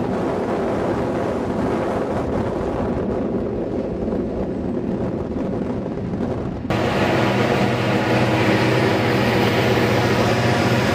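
Diesel freight locomotives running under power, a steady engine drone. About two-thirds of the way through, the sound cuts suddenly to a louder, brighter drone.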